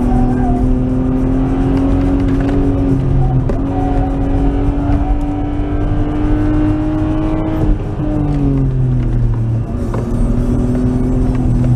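Nissan R33 Skyline's RB20E 2.0-litre SOHC straight-six running hard on a race circuit, heard from inside the cabin. Its pitch climbs slowly, falls away sharply about two-thirds of the way through, then climbs again near the end.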